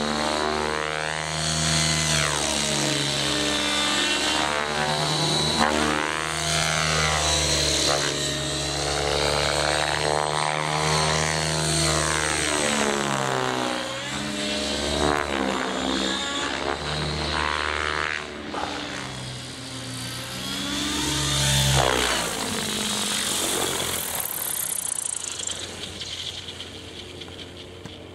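Align T-REX 700 DFC electric RC helicopter flying, its rotor and electric motor giving a steady pitched drone whose tone sweeps and shifts as the model moves about. About 22 seconds in the low rotor tone drops away, a high whine falls a few seconds later, and the sound fades toward the end.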